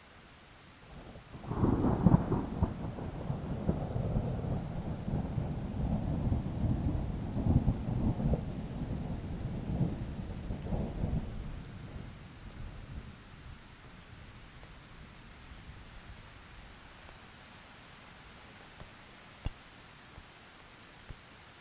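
A peal of thunder breaks suddenly about a second and a half in with a sharp crack, then rolls and rumbles for about ten seconds before fading away. Under it is a steady light patter of rain.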